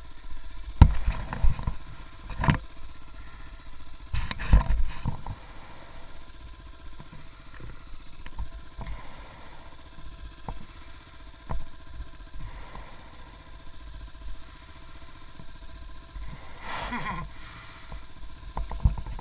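Motorcycle engine running steadily, with a few loud low thumps.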